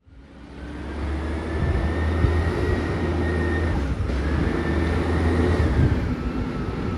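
Side-loader garbage truck running, fading in at the start: a steady low engine hum with a high whine above it that wavers slowly in pitch.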